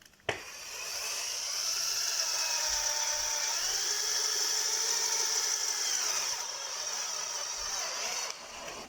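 Power drill running for about eight seconds, its motor whine dipping and rising in pitch under load, starting with a click and stopping near the end.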